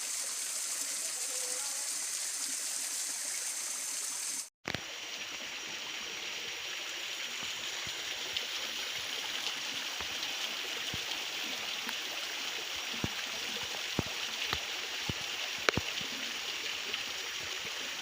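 Waterfall rushing steadily. The sound drops out for an instant about four and a half seconds in. After that, scattered sharp clicks and taps sound over the water, more of them near the end.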